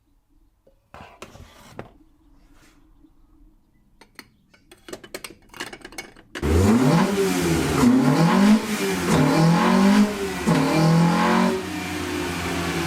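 Toyota 4A-GE four-cylinder twin-cam engine, fitted with a high-port head, a 278 inlet cam and a big header, starts after some clicking, is revved up and down in about four blips, then settles into a steady idle near the end.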